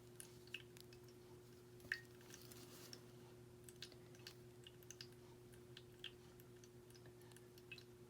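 Near silence with faint, scattered clicks of small metal jewelry components being handled, the loudest about two seconds in, over a steady low hum.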